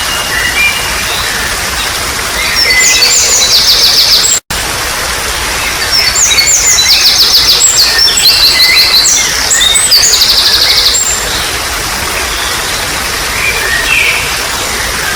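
Trickling water running steadily under wild birdsong: rapid runs of high, repeated trilled notes about three seconds in and again from about six to eleven seconds in, with scattered single chirps. The sound drops out for an instant about four and a half seconds in.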